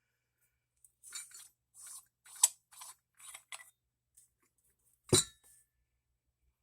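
Small metal parts of a toy steam engine being handled: a run of light clinks and scrapes, then a single knock about five seconds in.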